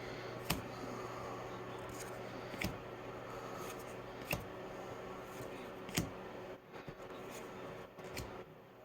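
Baseball trading cards being handled and flipped through, with a sharp card flick every second or two over a steady low hum.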